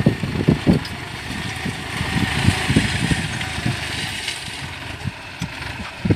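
Engine of a 49-horsepower, 2,700 cc New Holland tractor running, with a steady hiss over it.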